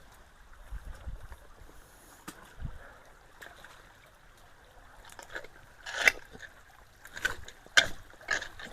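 Water running faintly through a clogged culvert, then sharp knocks and scrapes from about five seconds in as debris is pushed underneath it, loudest twice near the end.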